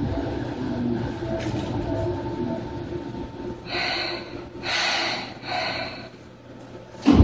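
Running noise inside a Seibu 2000-series electric train car: steady rolling of wheels on rail with a light motor hum. About halfway through come three short bursts of hiss. Near the end a loud low rumble sets in suddenly.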